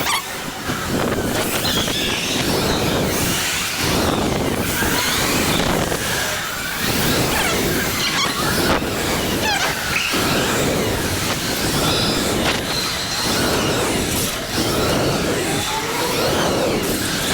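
E-bike ride with steady rushing wind and road noise that swells and fades over and over, crossed by short high-pitched glides that come and go.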